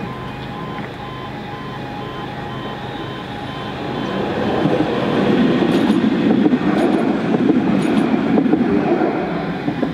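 A tram passing over a level crossing: its running noise swells from about four seconds in and is loudest near the end, with a few sharp clicks from the wheels over the rails.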